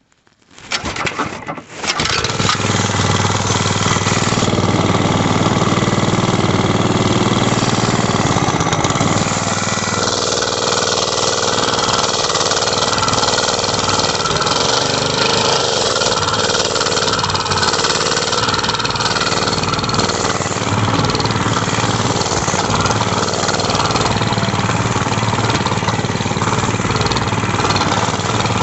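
Mini bike's small engine sputtering to life about a second in, then running loud and steady, with a slight change in tone about ten seconds in.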